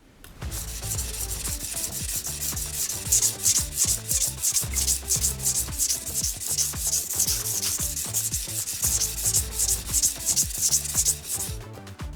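Steel knife blade being ground on a coarse 200-grit whetstone in quick, even back-and-forth strokes, a rhythmic gritty scraping that stops near the end. Soft background music underneath.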